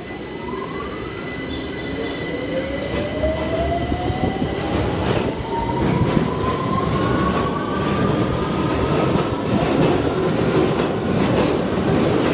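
London Underground Victoria Line tube train pulling out of the platform, its traction motors whining steadily up in pitch as it accelerates over a growing rumble of wheels on rail.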